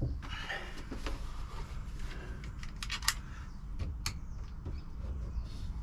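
Stanley knife slicing and trimming foil-backed sound deadening mat, faint scraping and rustling with a few sharp clicks about three and four seconds in.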